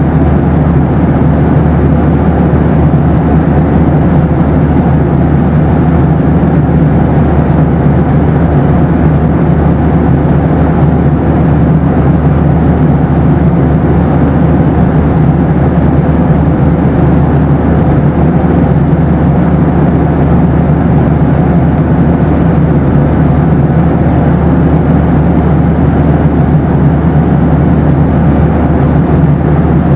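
Steady low rumble of a Boeing 737's engines and rushing air heard inside the passenger cabin, unchanging throughout, with a faint steady hum above it.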